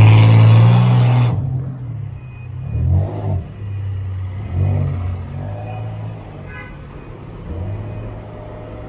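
A car engine revving hard and holding high revs for about a second, then two short blips of the throttle, then running steadily at a lower level.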